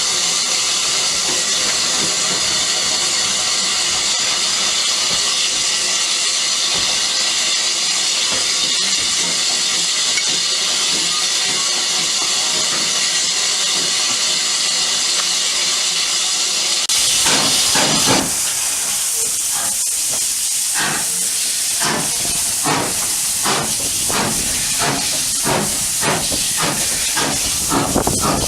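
Steam locomotive hissing steadily, then about 17 s in a louder blast of steam as it starts away, followed by regular exhaust chuffs at about two a second.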